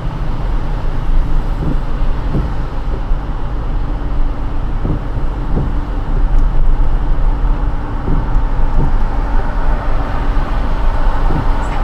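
Car driving on rain-wet roads: a steady rush of road, tyre and engine noise, with a few faint knocks.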